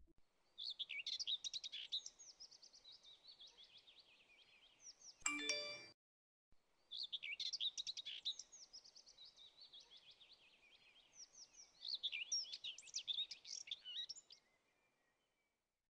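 A songbird's fast twittering song in two long phrases, with a short bell-like ding about five seconds in, between them.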